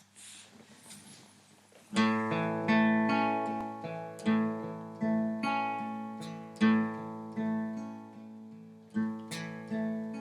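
Acoustic guitar playing a song's intro: chords strummed or picked in a slow, steady rhythm, starting about two seconds in after faint hiss.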